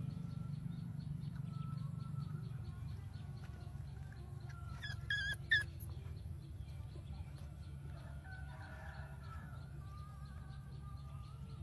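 A few short, high-pitched animal cries about five seconds in, with fainter calls in the background over a steady low hum.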